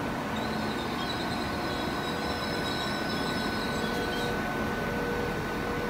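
Transport for Wales diesel multiple unit running alongside the platform, a steady hum with a constant high whine, and a faint wavering high squeal for about four seconds.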